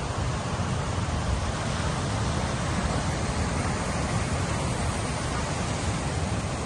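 Sea surf breaking on a beach: a steady roar of water with a deep rumble underneath.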